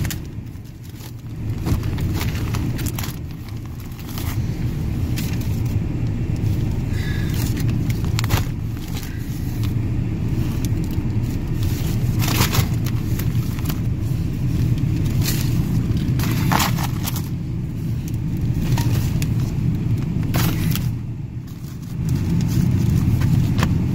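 A car driving, heard from inside the cabin: a steady low rumble from the engine and tyres, with scattered clicks and knocks. The rumble dips briefly a few times and comes back up.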